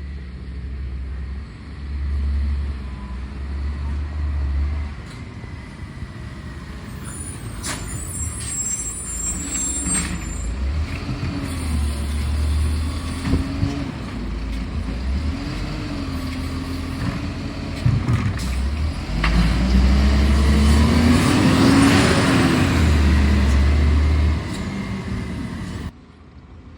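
Garbage truck's engine running and revving up and down repeatedly, loudest about twenty seconds in, with a sharp air hiss and some clatter about eight seconds in.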